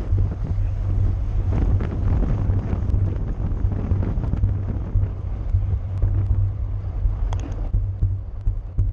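Wind buffeting the microphone of a camera riding on a racing bicycle at speed: a steady low rumble with faint ticks, and a brief high-pitched squeak about seven seconds in.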